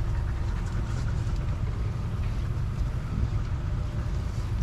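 A tri-toon boat's outboard motor running at low speed during docking, heard as a steady low rumble.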